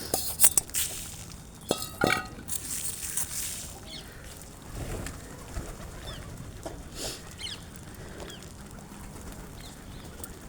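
Small birds chirping in short, high calls, with rustling and a few sharp knocks in the first couple of seconds.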